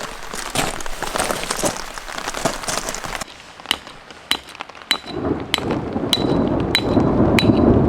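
Heavy rain pattering densely on a tent. About three seconds in it changes to single drops falling about twice a second, each landing with a short ringing ping on something hard, over a low rushing that grows louder near the end.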